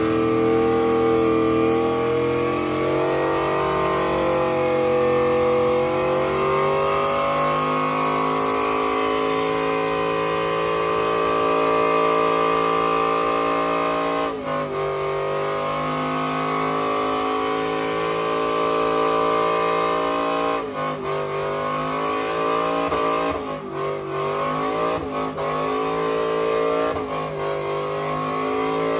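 A vehicle engine running with a steady drone that holds its pitch for several seconds at a time. Its pitch wavers early on, then drops and recovers briefly about halfway and several times near the end.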